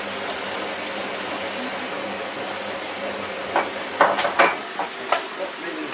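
Hotpoint 9534A washing machine steadily filling with water through its inlet, a constant hiss of inflow, which the owners find slow. From about three and a half seconds in, a quick run of sharp clinks and clatters, like crockery being handled.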